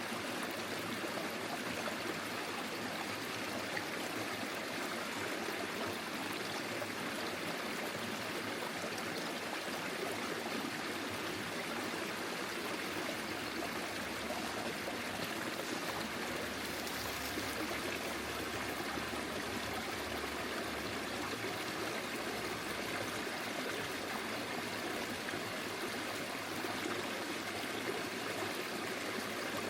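Forest stream flowing steadily, a continuous rush of water.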